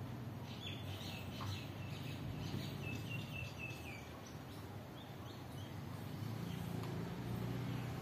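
Birds chirping: a quick run of short, high chirps that step slightly down in pitch, then a few scattered chirps later, over a steady low background hum.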